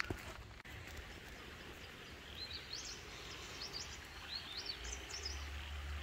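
A small bird chirping, a quick series of short rising notes over a few seconds, over a steady outdoor hiss; a low rumble swells near the end.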